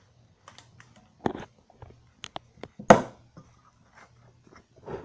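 Handling sounds of PVC pipe fittings and primer and glue cans on a table: scattered clicks and knocks, with louder clattering knocks about a second in and near the middle.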